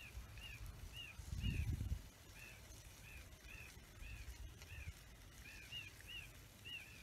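A small bird chirping over and over, short rising-and-falling notes at about two a second, with a brief low rumble about a second and a half in.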